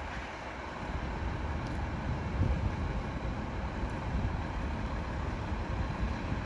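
Garbage truck's diesel engine running with a steady low rumble.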